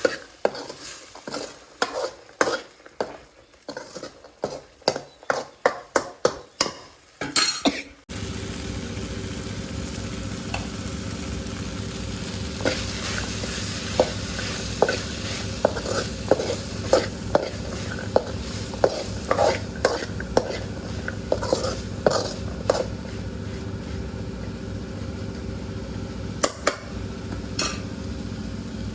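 Cooking in a pan: a utensil knocks repeatedly against the pan, about two strokes a second, then after an abrupt change food sizzles steadily in hot oil with scattered spattering ticks.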